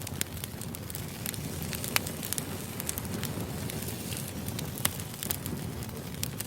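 Wood fire crackling: a steady hiss with irregular sharp pops and snaps, the loudest about two seconds in.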